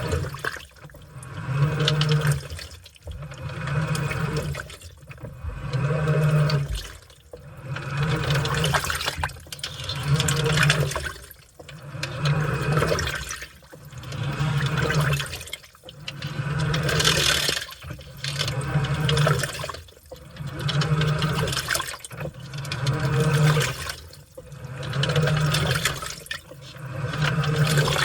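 Washing machine in its wash cycle: water sloshing and churning as the drum or agitator turns, with the motor's low hum rising in each stroke and pausing briefly, about once every two seconds.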